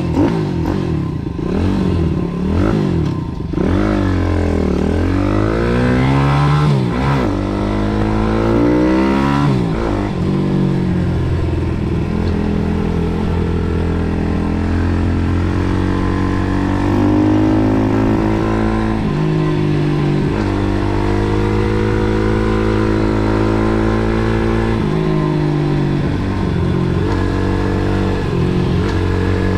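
MRF 140 SM pit bike's single-cylinder four-stroke engine, heard onboard under hard riding: the revs climb and fall again and again in the first ten seconds, then run at a steadier high pitch with brief dips and steps.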